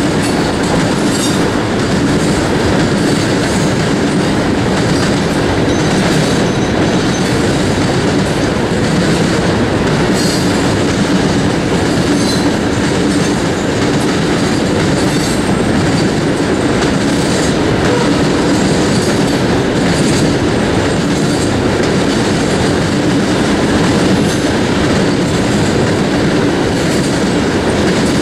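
Coal train's hopper cars rolling past in a steady, loud rumble of steel wheels on rail, with faint, brief high wheel squeals now and then.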